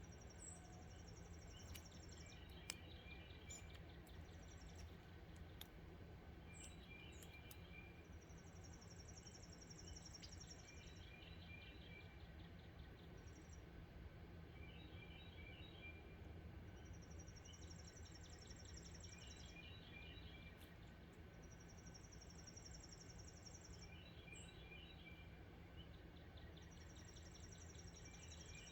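Faint songbird song: a high, fast trill lasting about two seconds, repeated every five to seven seconds, with groups of lower chirping notes in between, over a steady low background rumble.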